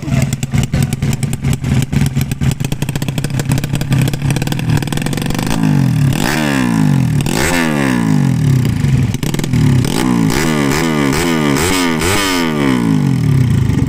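Motorcycle engine idling with a fast, even clatter, then revved again and again from about five seconds in, each blip of the throttle climbing quickly and falling away, before settling back to idle near the end.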